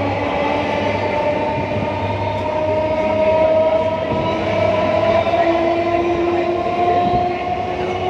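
Passenger train running, a steady rumble under a whine that slowly rises in pitch, as when the train gathers speed.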